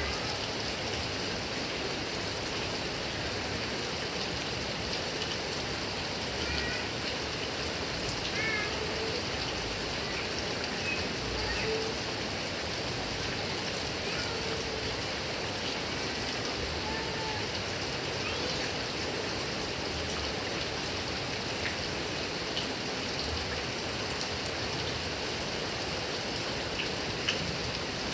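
Heavy rain falling steadily on grass and palm trees, an even hiss of water. A few faint short sounds rise above it now and then.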